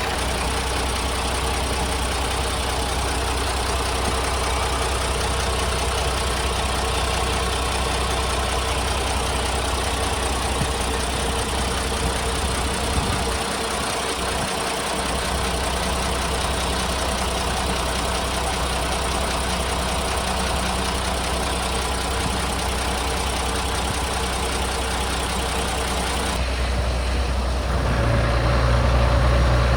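Isuzu Forward truck's six-cylinder diesel engine idling steadily. It grows a little louder near the end.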